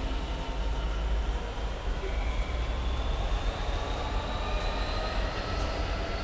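Train running at a station, a steady low rumble with a faint whine that slowly rises in pitch.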